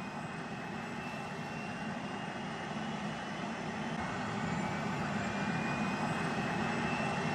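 Jet aircraft engine running, a steady rush with a thin whine that rises slowly in pitch as the sound grows gradually louder.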